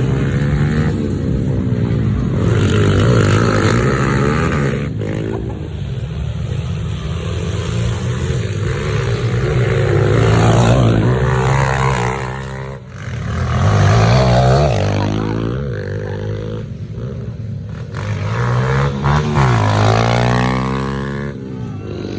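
Several pit bike engines revving hard and easing off over and over, their pitches rising and falling and overlapping as the bikes race.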